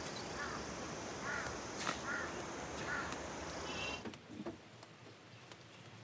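A bird calling four times, short calls a little under a second apart, over a steady outdoor hiss. The background drops quieter about four seconds in.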